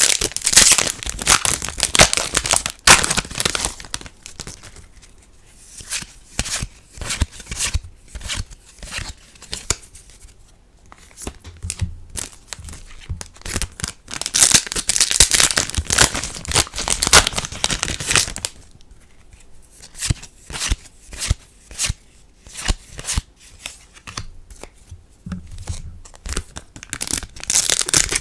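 Foil trading-card booster packs being torn open and crinkled, in three spells of dense rustling and tearing. Between them come scattered sharp clicks and snaps of cards being handled.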